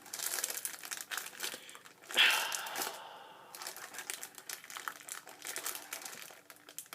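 Plastic snack bag crinkling as it is handled and pulled open, with a louder crackle about two seconds in.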